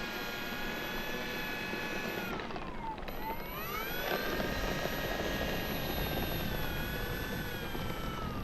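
Electric RC plane's brushless motor and propeller whining in flight, the pitch dipping and then climbing back about three seconds in.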